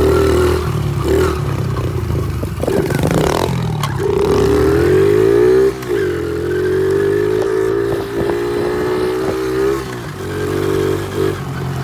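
Honda XR70 pit bike's small single-cylinder four-stroke engine revving under throttle while riding. Its pitch climbs for a couple of seconds, drops sharply at about the halfway mark, holds steady for a few seconds, then dips and picks up again near the end.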